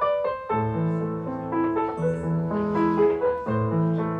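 Background piano music: a melody of struck notes over a bass line that comes in about half a second in.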